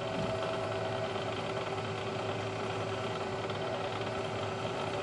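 Bridgeport milling machine running steadily, its spindle motor giving an even hum with a few fixed tones.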